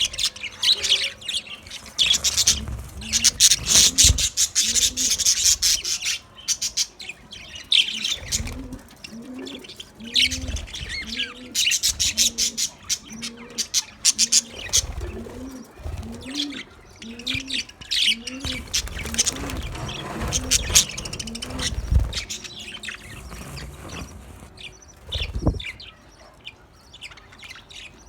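Budgerigars chattering and warbling in fast, high chirps, loudest in the first half and again in the second third. A low, arched call repeats steadily underneath them through the middle stretch.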